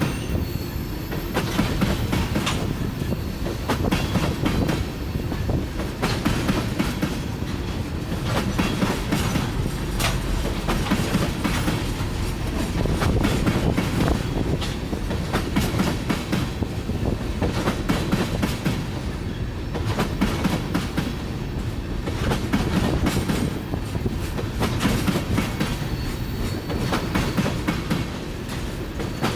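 Tank cars of a freight oil train rolling past: a steady rumble of wheels on rail, with repeated clicks as the wheels cross rail joints.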